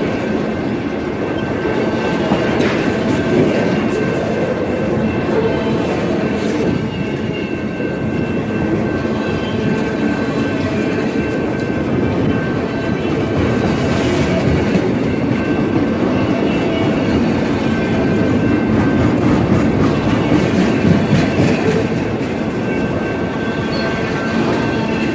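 Canadian Pacific freight train of autorack cars rolling past at close range, a steady loud rumble of wheels clattering over the rails, with a thin steady high tone above the clatter.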